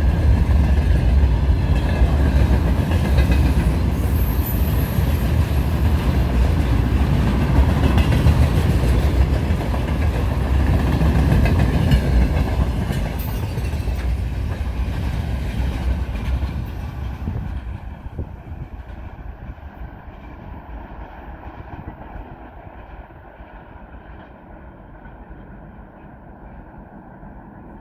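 Freight train wagons rolling past with a heavy low rumble and wheels clattering over the rail joints; about 17 seconds in, the sound fades as the end of the train goes by and recedes.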